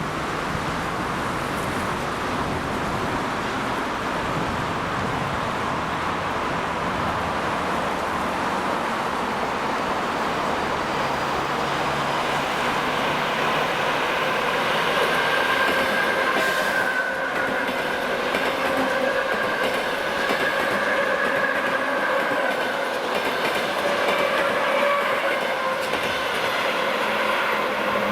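An ЭП2Д DC electric multiple unit passing close by at speed. Wheels roll steadily on the rails, and from about halfway through a steady whine joins in.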